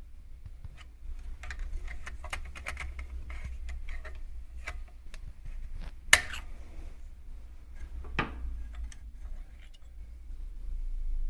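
Irregular light clicks and small metal taps of parts and tools being handled, with a sharp knock about six seconds in and a smaller one about two seconds later, over a low steady hum.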